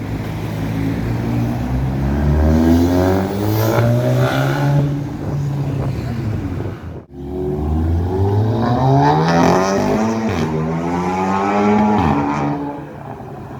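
Two car engines accelerating hard, one after the other, the engine note climbing steeply in pitch as each revs up. A brief break about seven seconds in separates the two, and the second fades near the end.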